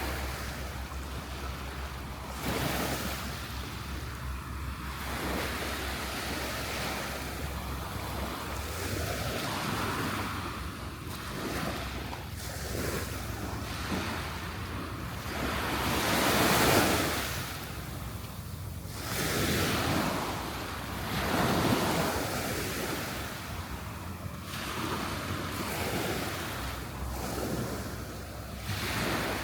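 Waves breaking and washing up on a sandy beach, swelling and falling, loudest at about the middle of the stretch, with wind rumbling on the microphone.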